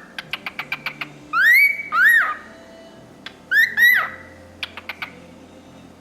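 Young cockatiel wolf-whistling twice, each a rising note followed by a note that rises and falls. A quick run of clicks comes before the first whistle and a few more after the second.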